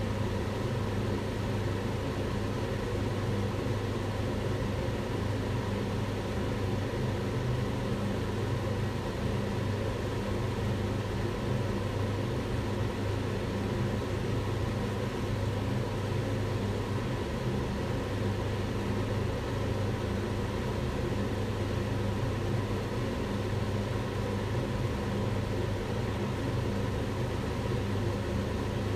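Kitchen range hood extractor fan running steadily: a constant low hum over an even rush of air.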